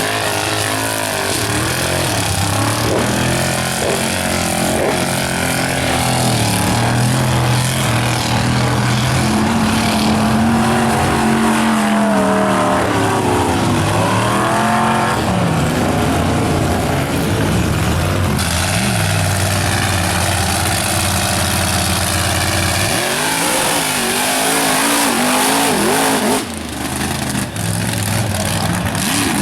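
Mega truck engines revving hard while mud bogging, their pitch rising and falling again and again. The sound drops briefly near the end.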